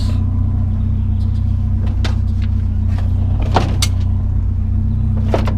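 A vehicle engine idling steadily with a low hum, with a few sharp clanks of scrap metal being handled over it.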